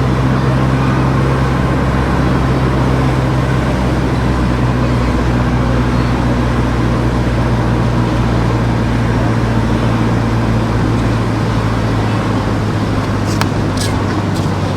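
Car driving: a steady engine hum under road and tyre noise, the hum's pitch easing down slightly about five seconds in. A few short clicks come near the end.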